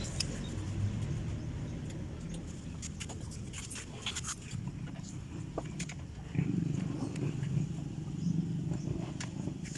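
Small motorcycle engine running at idle: a steady low rumble with scattered light clicks and ticks, getting louder for a couple of seconds past the middle.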